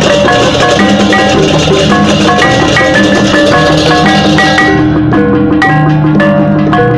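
Balinese gamelan music: tuned metal percussion plays quick, interlocking notes over a steady low tone, with crashing cymbals that stop about two-thirds of the way through.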